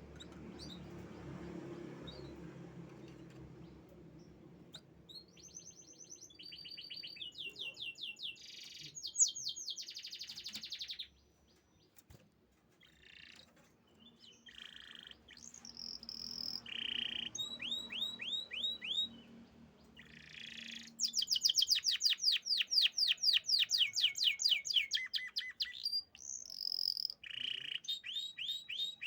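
Domestic canary singing: long rolling trills of rapid repeated notes and bright whistled phrases. The singing starts about five seconds in, breaks off briefly, then comes back louder and denser in the second half.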